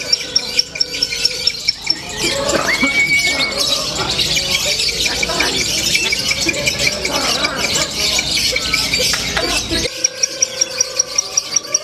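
Lovebirds squealing and chattering shrilly, with a regular rapid chirp about five times a second at the start and end and a denser, louder spell of squeaks and calls through the middle.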